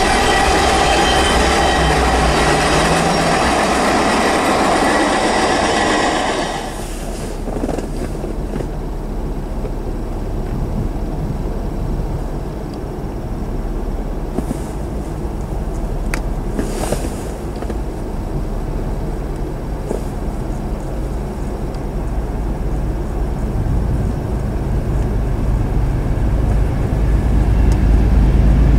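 Norfolk Southern intermodal freight train rolling past with wheel squeal, dropping away sharply about six and a half seconds in as the end of the train goes by. A quieter rail rumble follows, and near the end the low drone of an approaching diesel locomotive grows louder.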